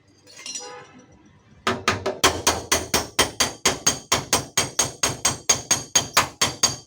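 A hammer tapping a dented steel car door panel, ketok magic style, to work the dent back out: light, even strikes at about four a second with a metallic ring, starting about two seconds in.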